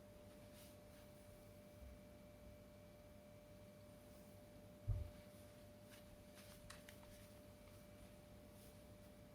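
Near silence: room tone with a faint steady high hum, one short low thump about five seconds in, and a few faint clicks.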